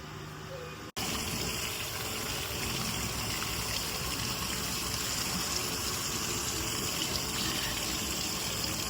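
Steady rushing water, starting abruptly about a second in.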